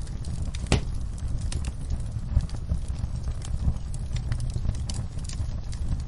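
Wood fire crackling in a fireplace: a steady low rumble of burning with scattered pops and snaps, one louder pop about three-quarters of a second in.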